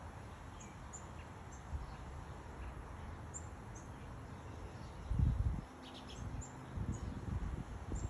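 Small birds giving brief, high-pitched chip calls, a dozen or so scattered through, over a steady outdoor hiss. A low thump on the microphone about five seconds in is the loudest sound, followed by a few smaller low bumps.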